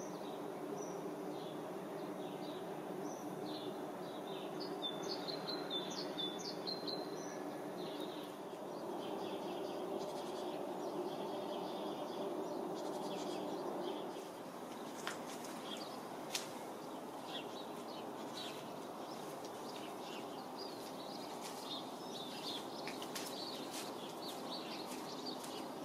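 Small birds chirping, in short high calls, over a steady background hum that eases off about halfway through.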